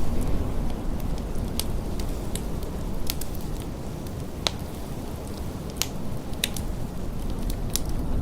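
Wood fire in a fireplace crackling with scattered sharp pops, over a low steady rumble of blizzard wind that eases off at the start.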